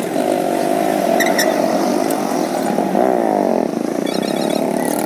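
Motorcycle engine running under way, rising in pitch about three seconds in as it speeds up.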